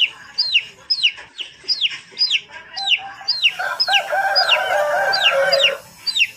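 Chicks peeping: a steady run of short, high, falling peeps, about three a second. About three and a half seconds in, an adult chicken gives a longer, lower call lasting about two seconds.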